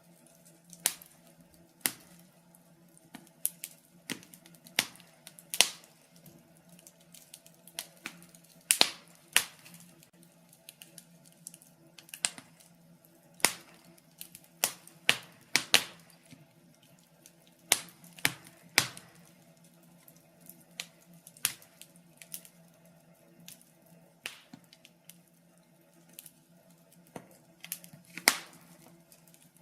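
Burning logs crackling in a fireplace: irregular sharp pops and snaps, roughly one a second and sometimes in quick clusters, over a faint steady low hum.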